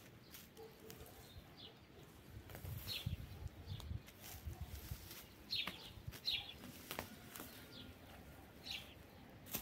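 Small birds chirping in short calls every second or two, over a low rustling noise about three to five seconds in.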